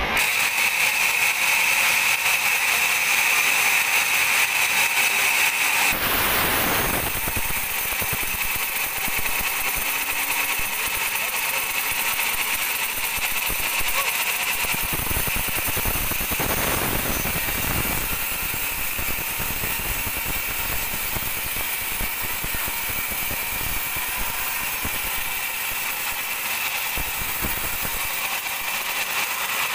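Band sawmill running continuously with a steady high whine. About six seconds in, the sound turns rougher and fuller.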